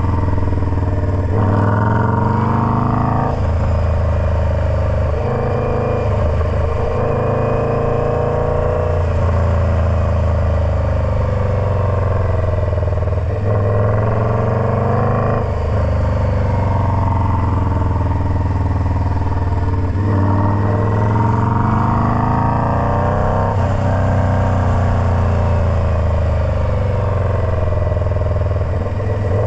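Indian Scout Bobber's V-twin engine running through a Freedom Performance Combat 2-into-1 exhaust. Its engine speed climbs and falls again and again, with several sharp drops in pitch.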